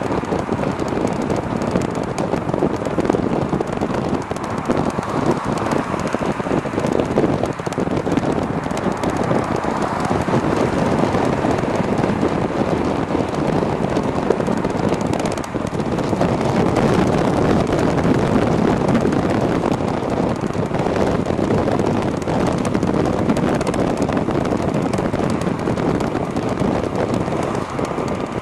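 Wind buffeting and rushing over the camera microphone on a moving e-bike: a loud, steady rush that dips briefly about halfway through.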